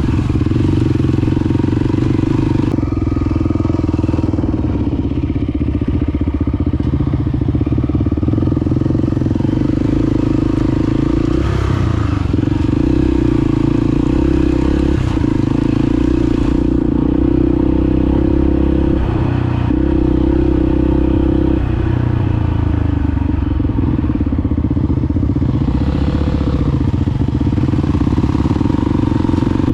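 Honda XR250 Baja's single-cylinder four-stroke engine running steadily while riding, with a few brief changes in pitch as the throttle or gear changes.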